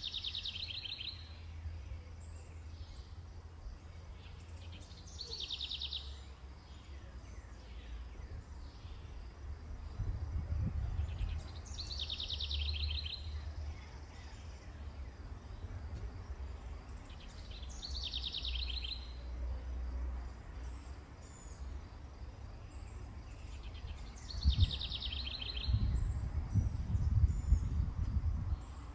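A songbird singing the same short trilling phrase five times, about every six seconds, each phrase about a second long, over a steady low outdoor rumble. A few dull low thumps come near the end.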